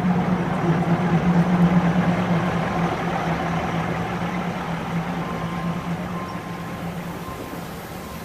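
Diesel passenger train passing slowly at close range, its engine's steady low drone and running rumble fading as it moves off.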